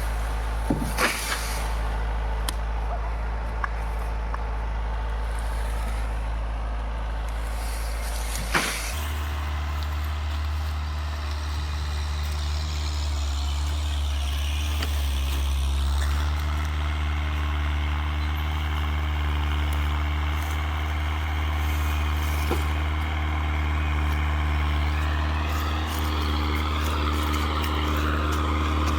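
Tractor diesel engine running steadily. About nine seconds in it picks up speed and holds at higher revs. There is a couple of sharp knocks early on, and a rising whine near the end.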